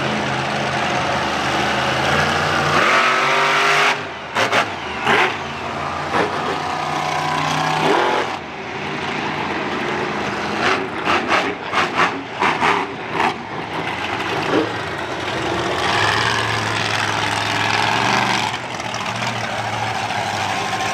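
Monster truck engines running, with a rapid series of short, sharp blips of the throttle about a third of the way in and again in the middle.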